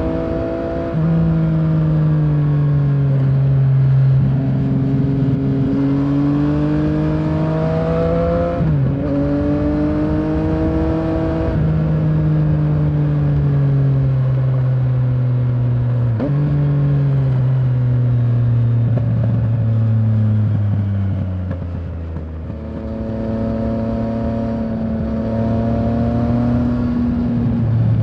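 Yamaha Tracer 900's inline-three engine pulling under throttle while riding, its pitch climbing and falling with engine speed, with sudden pitch drops at about 9 and 16 seconds in, as at gear changes. Past about 20 seconds the revs ease off and the level dips briefly, then the engine picks up again.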